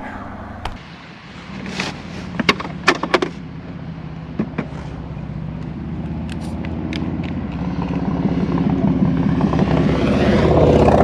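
A motor vehicle's engine running and growing steadily louder toward the end, as if approaching. Several sharp clicks and knocks come about two to three seconds in.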